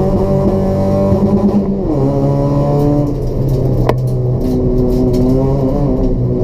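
Race-prepared Toyota Etios 1.5-litre petrol engine with a free-flow exhaust running under load at high revs. Its note drops about two seconds in and again a little later, as revs fall, with one sharp click near the middle.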